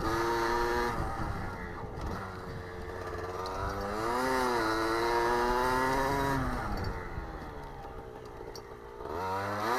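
Motocross bike engine running under way, its revs climbing to a peak about four seconds in and falling back. It drops lower around the eight-second mark, then picks up again near the end.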